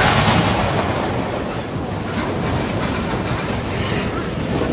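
Roller coaster train running along its track, a steady rolling noise that swells briefly at the start.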